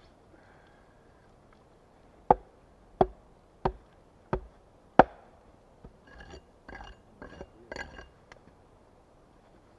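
Five sharp blows of a tool striking wood, evenly spaced about two-thirds of a second apart, each with a short ring; then a couple of seconds of rougher scraping and rustling.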